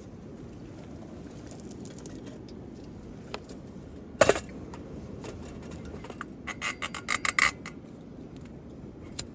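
Steady low outdoor background noise, broken by one sharp knock about four seconds in and then a quick run of light clicks and clinks, like gear being handled.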